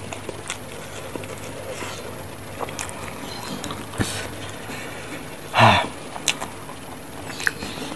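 A person chewing food with the mouth closed: scattered soft wet mouth clicks, with one louder, short breathy sound a little past halfway.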